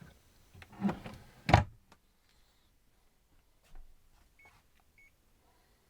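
Rustling handling noise, then one sharp knock about one and a half seconds in, followed by a few faint clicks and two short high beeps near the end.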